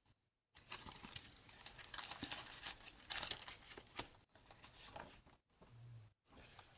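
Paper being handled: the mixed paper pages and pockets of a handmade junk journal rustling as they are turned and opened, with small clicks and taps and a few brief pauses.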